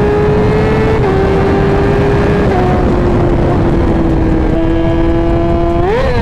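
2017 Yamaha R6's inline-four engine running at high revs under way. Its pitch drops in small steps a few times, then rises and falls quickly in a sharp rev near the end, over steady wind noise on the microphone.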